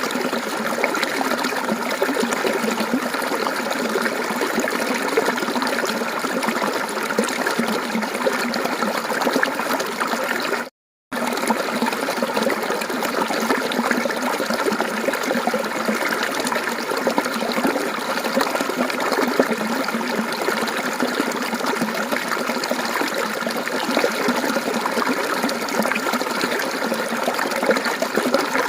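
Mountain water flowing and babbling steadily, cutting out for a moment about eleven seconds in.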